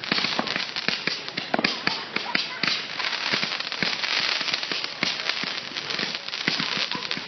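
Consumer fireworks going off on the ground, a dense run of rapid sharp pops and crackles over a steady hiss as burning stars shoot upward.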